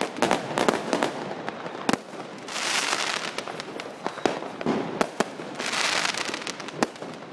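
Consumer fireworks going off all around: many sharp bangs of firecrackers and shells at irregular intervals, with two bursts of hissing crackle about two and a half and five and a half seconds in.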